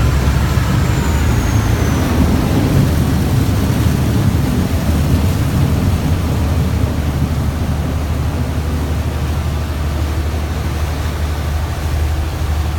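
Passenger river boat's engine running steadily, a low drone with a constant rush of noise over it.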